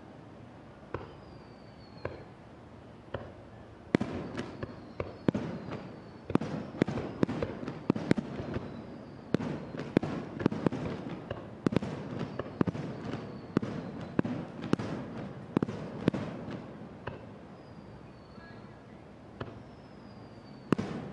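Aerial fireworks shells bursting: a few scattered bangs, then a rapid barrage of booms for about thirteen seconds that thins back to single bangs near the end. Short falling whistles sound among the bursts.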